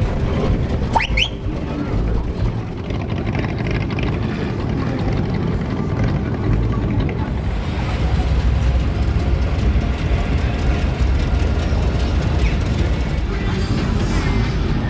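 Steady low rumble of classic American car engines cruising past, with a short rising whistle about a second in.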